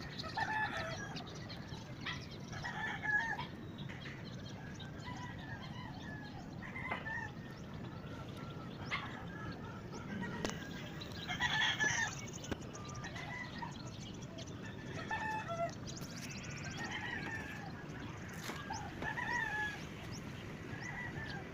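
Chickens calling: short pitched calls every second or two over a steady background hiss, with a longer run of calls about halfway through.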